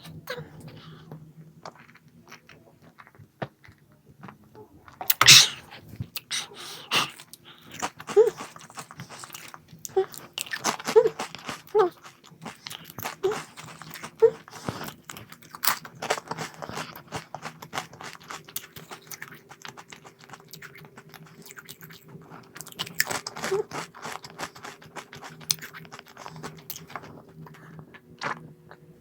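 Someone biting and chewing a crunchy snack: irregular crisp crunches, the loudest about five seconds in, then a run of smaller chewing crunches.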